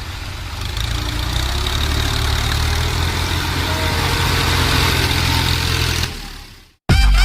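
Tractor diesel engine running steadily, its drone growing louder about a second in and then fading out near the end. Music cuts in at the very end.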